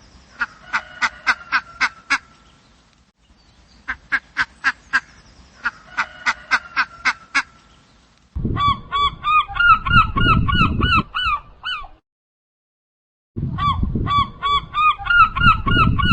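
Animal calls: two runs of rapid clicking pulses, each a few seconds long. Then come two bouts of loud, quickly repeated honking calls, with a short silence between them.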